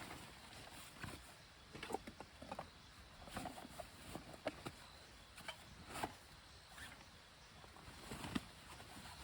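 Irregular light clicks and knocks, about a dozen scattered unevenly over a low steady background.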